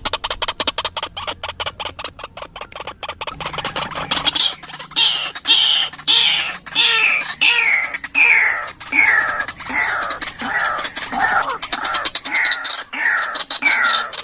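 White-breasted waterhen calling: a fast chatter of clicks for the first four seconds or so, then a long run of harsh, falling 'ruak' calls, close to two a second.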